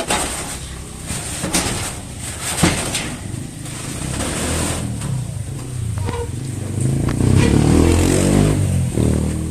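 A vehicle engine running, with a few sharp knocks in the first three seconds; from about five seconds in its low note rises and falls, loudest near the end as if revving or pulling away.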